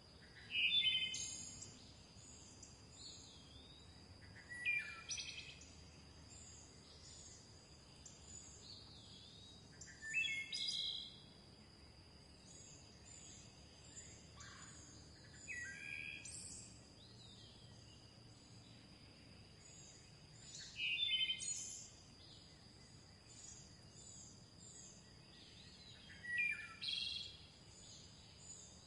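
Birds singing: one bird repeats a short song phrase about every five seconds, each phrase sliding down from high to middle pitch, while fainter, higher chirps run on between them over a steady thin high tone.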